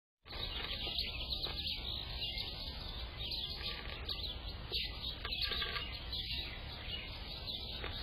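Small songbirds chirping repeatedly over a steady background hiss.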